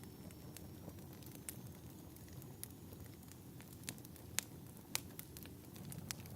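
Fireplace crackling: scattered sharp pops and snaps over a low, steady rumble of burning wood, with a couple of louder snaps about four and five seconds in.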